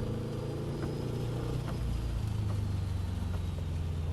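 Car engine running steadily at part throttle on a wet track, with a thin high whine that slowly falls in pitch and faint ticks about once a second.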